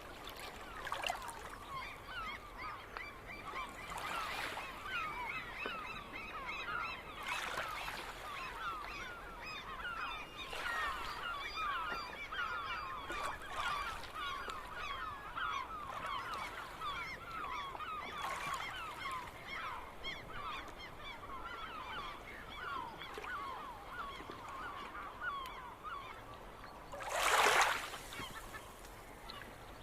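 A flock of gulls calling over one another in a dense, continuous chorus of short cries. A brief, louder burst comes about 27 seconds in.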